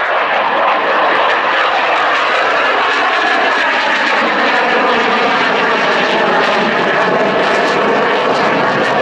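Eurofighter Typhoon's twin EJ200 jet engines running loudly and steadily, a dense jet roar that swells as it begins and then holds level.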